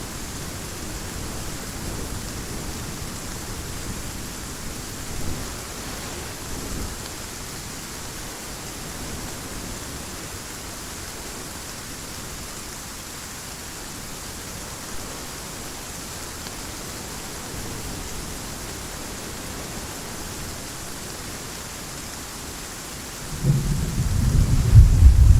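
Heavy rain falling steadily as an even hiss, with a loud, deep thunder rumble rolling in about two seconds before the end.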